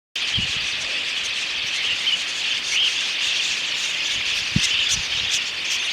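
Outdoor nature ambience: a steady high-pitched chorus with small chirps scattered through it, broken by a few short low thumps.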